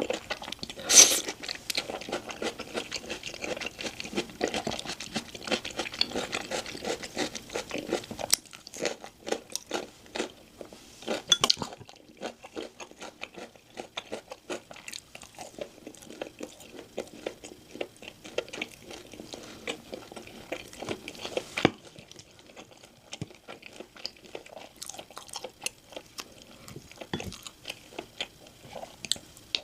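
Close-miked eating sounds: crunchy bites and chewing, with a sharp clink about a second in and a few more later.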